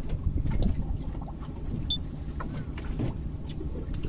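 Fishing boat's engine idling with a steady low hum, over rough water noise around the hull and a few light clicks and knocks.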